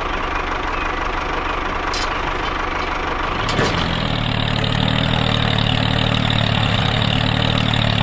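Engine idling steadily, with a deeper, even engine hum setting in about three and a half seconds in.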